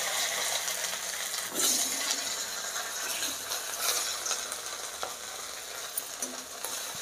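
Boiled potato chunks sizzling in hot mustard oil in a metal kadhai, with a few sharp clinks and scrapes of a metal spatula against the pan as they are turned.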